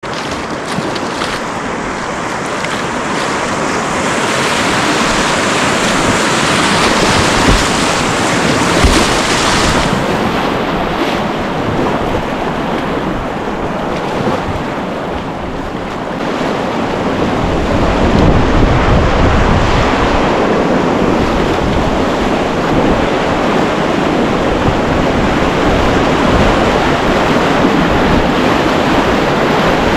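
Rushing wind and surf, with gusts buffeting the microphone.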